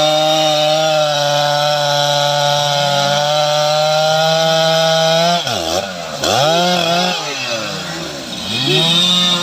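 STIHL MS 881 two-stroke chainsaw running at high revs, sawing into teak wood. About five seconds in, the revs drop and surge up and down a few times, then climb back to full speed near the end.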